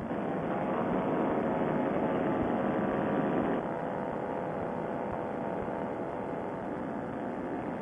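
Paramotor engine and propeller running steadily in flight, with wind noise on the microphone; the engine note drops back and gets quieter about three and a half seconds in, then holds steady.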